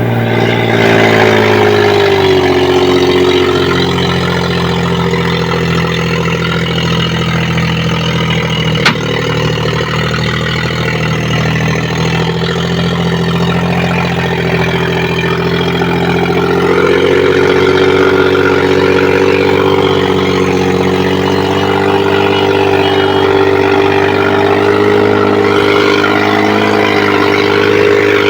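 Tractor engine running steadily, settling from a higher pitch in the first couple of seconds and rising slightly past the middle. A single sharp click about nine seconds in.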